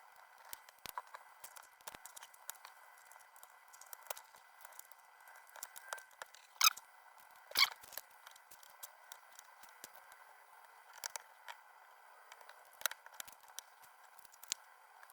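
Small plastic Lego pieces being handled and pressed together: scattered light clicks and rattles, with two louder snaps about a second apart near the middle.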